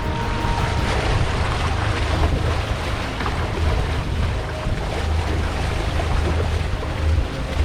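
Wind buffeting the microphone over the rush of water along the hull of a sailboat under way, a steady low rumble with a broad hiss.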